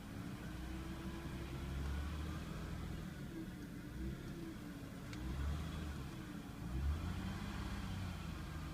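2000 Toyota Avalon's V6 engine idling with a slight whine that wavers up and down in pitch over a low rumble. The owner guesses the whine is an early sign of alternator failure.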